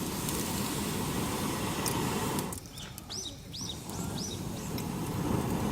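A steady rushing noise that drops away briefly about halfway through, with a small bird chirping four or five times in quick succession over the gap.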